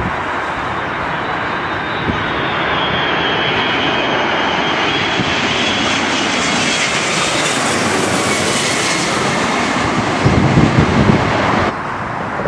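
Airliner passing close by, its engine roar swelling to a peak about two-thirds of the way through, with a high whine sliding down in pitch. Wind buffets the microphone near the end, and the sound cuts off suddenly just before the end.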